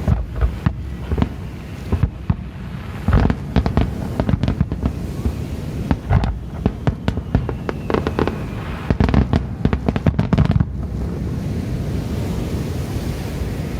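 Fireworks shells bursting in a rapid volley of sharp bangs and crackles, which stop about three-quarters of the way through, leaving a steady low rumble.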